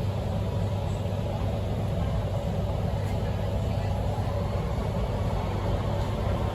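Beijing Subway Line 8 train running, heard from inside the car: a steady low rumble.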